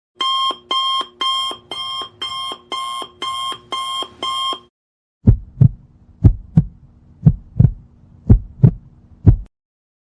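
Electronic alarm-clock beeping, about two short beeps a second for about four and a half seconds. After a short gap comes a heartbeat sound effect: pairs of low thumps about once a second over a faint steady hum.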